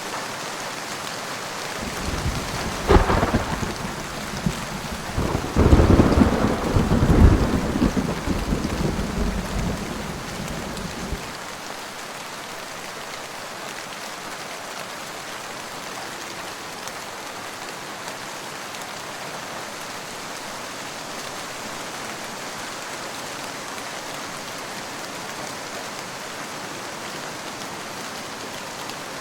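Steady heavy rain, with a thunderclap about two seconds in: a sharp crack followed by a long rolling rumble that peaks a few seconds later and dies away after about nine seconds, leaving only the rain.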